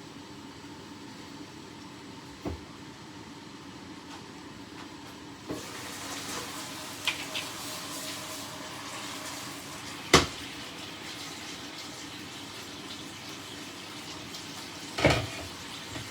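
Chicken sizzling in a frying pan, the sizzle getting louder and brighter about five seconds in, over a steady background hum. Three sharp knocks of metal on the pan, the loudest about ten seconds in.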